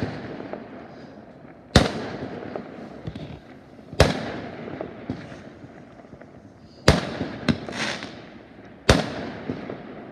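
Fireworks exploding overhead: four loud sharp bangs about two seconds apart, with a few smaller pops between them, each followed by a rolling echo that fades away.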